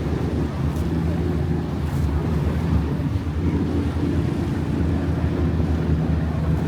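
River cruise boat's engine running with a steady low drone, with wind rumbling on the microphone.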